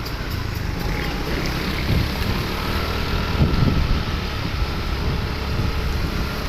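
Truck engine running with road rumble, wind buffeting the microphone.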